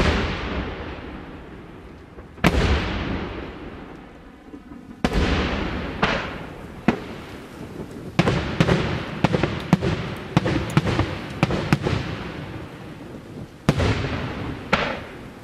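Daytime fireworks display: aerial shells bursting overhead with sharp bangs, each trailing off in a long echoing rumble. Single bangs come a second or two apart at first, then a quick run of a dozen or so bangs midway, then a few more single bangs near the end.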